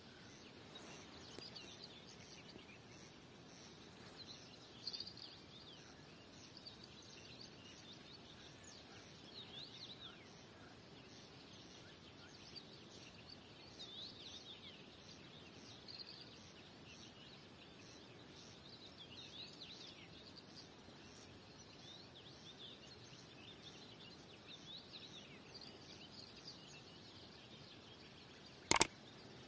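Faint birdsong: scattered chirps over a quiet outdoor hush. Near the end, one sharp, loud ding rings out.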